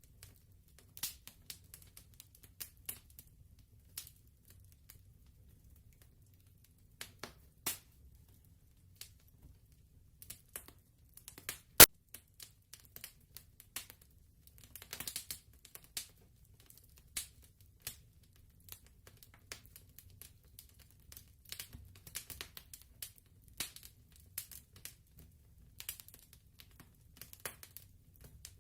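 Wood fire crackling: irregular sharp snaps and pops over a faint low rumble, with one much louder pop about twelve seconds in.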